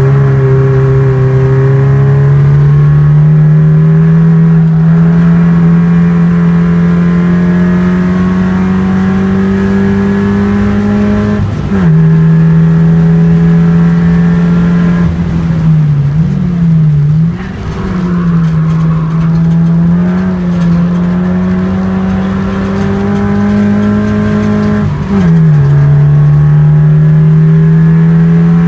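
Race car's engine heard from inside the cabin, pulling under throttle with its pitch climbing slowly, then dropping sharply at an upshift about 12 s in and again near the end. In between, around 16 to 18 s, the revs dip and waver as the throttle is lifted for a corner.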